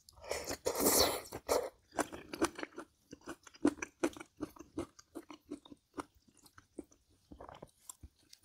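Close-miked chewing of crunchy food: a loud crunching bite about a second in, then steady chewing with many quick wet clicks.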